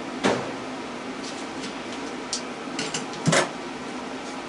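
Metal clicks and knocks of hand tools and parts being handled while an electric motor is unbolted for scrap. Two louder knocks come about a quarter second in and a little over three seconds in, with lighter clicks between, over a steady background hum.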